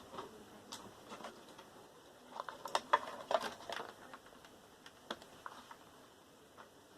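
Light clicks and taps of small computer parts being handled during the disassembly of a desktop PC tower, bunched together about halfway through with a single click a little later.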